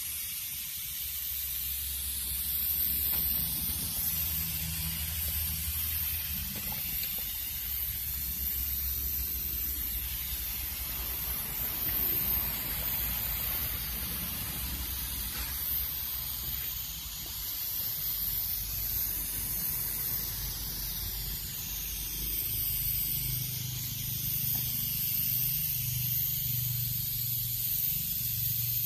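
Nissan QD32 3.2-litre four-cylinder diesel engine running steadily, under a strong steady hiss.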